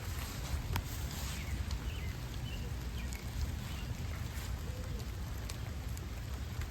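Steady rain falling, with an even hiss and sharp drips of individual raindrops hitting close to the microphone. A steady low rumble runs underneath.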